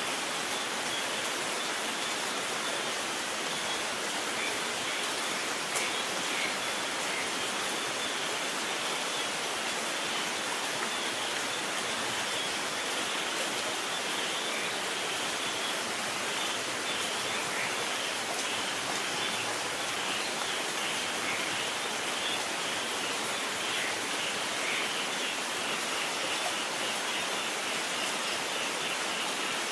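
Steady rain falling, an even hiss with a faint crackle of drops and one slightly louder tick about six seconds in; no thunder rumbles.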